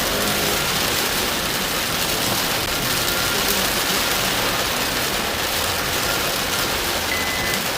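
Heavy rain falling on a car, a steady dense hiss. Near the end a short high beep starts, repeating about once a second.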